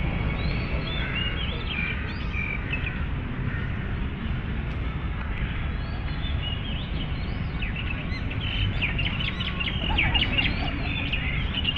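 Several small birds chirping and calling in short, quick notes, busiest near the end, over a steady low background rumble.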